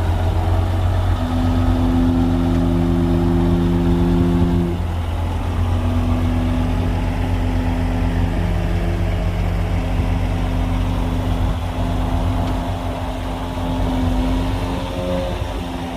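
Heavy diesel earthmoving machinery running steadily with a deep rumble, its engine note stepping up and down in pitch a few times.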